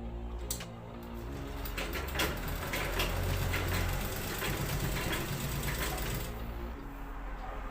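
Sewing machine running fast, its needle ticking rapidly as it stitches through double-folded cloth. It speeds up about a second in and stops about six seconds in.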